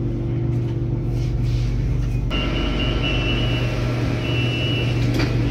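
Inside a Bangkok BTS Skytrain car moving slowly along a station platform: a steady low electric hum from the train. A thin high whine joins it about two seconds in.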